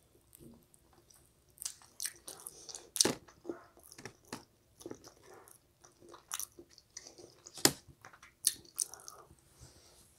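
Close-miked eating sounds: pizza being bitten and chewed, with wet mouth smacks and scattered short crunches.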